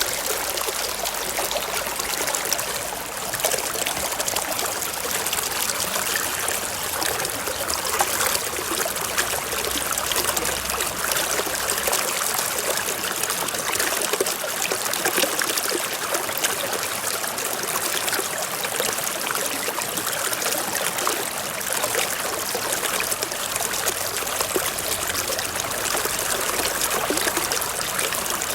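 Forest stream flowing and trickling over rocks: a steady bright rush of water with small splashes and gurgles.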